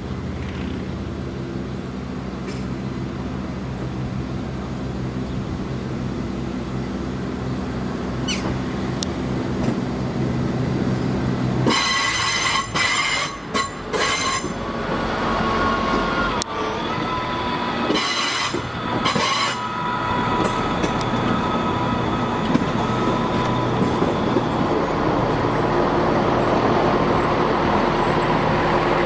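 Diesel multiple unit running past with a steady low engine drone. Loud, short, high screeches come in bursts about twelve and eighteen seconds in. After that a sustained high squeal of the wheels on the curve continues over a rising rumble as the train moves away along the track.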